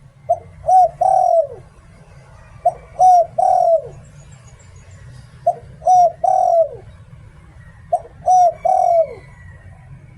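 Spotted dove cooing in the 'liw tan' rhythm prized by Thai dove keepers. There are four phrases about two and a half seconds apart, each two short coos followed by a longer coo that falls in pitch.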